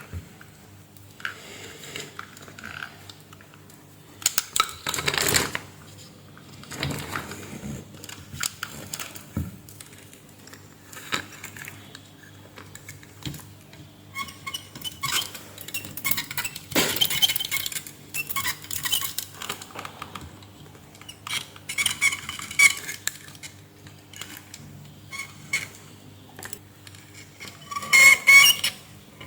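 Small metal tools and parts clinking and clattering in irregular bursts, loudest near the end, over a faint steady hum.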